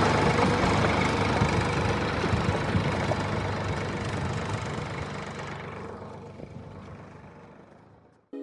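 Engine running steadily with a low, even throb, fading out gradually over the last few seconds to silence.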